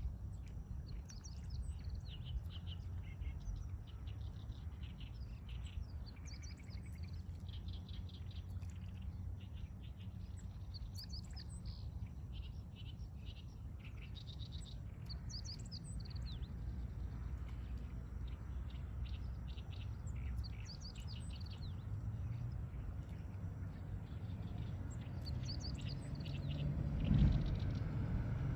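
Songbirds singing at dawn: short, quick chirping phrases repeated again and again over a steady low rumble. Near the end a swell of noise grows louder and briefly becomes the loudest sound.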